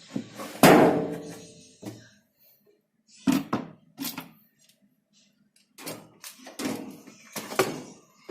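Knocks and clanks of washing-machine parts being handled during a suspension-rod replacement. The loudest comes about half a second in and rings on for about a second, followed by two more clusters of knocks.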